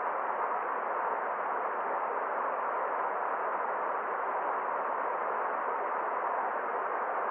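Forest stream's water rushing steadily, an even hiss with no separate splashes or drops.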